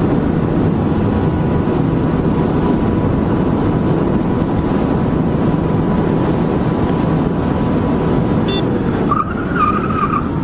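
Steady wind and road noise of a motorcycle ridden at speed, picked up by the rider's camera. About nine seconds in, a short wavering high squeal cuts in over it, like tyres skidding.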